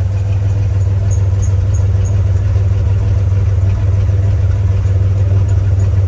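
A 1994 Chevy S10 Blazer's 4.3-litre V6 idling steadily soon after a cold start, heard from the exhaust at the rear of the vehicle.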